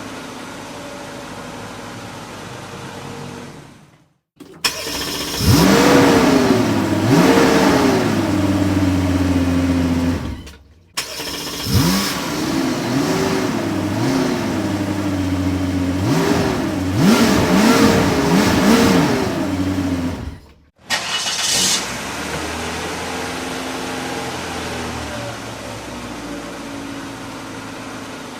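Car engine idling steadily, then revved in quick blips: two revs, then a run of about five quick revs, each rising and dropping back, before it settles to a steady idle. The sound is broken by two brief silences.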